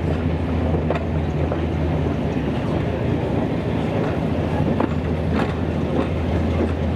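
Diesel train running: a steady low engine drone with rail and wheel noise and a few brief clicks.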